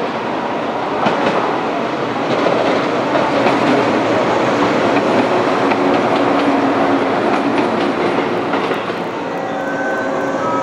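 JR West Kumoya 443-series two-car AC/DC electric inspection train running past, with steady wheel-on-rail running noise and clicking from the wheels.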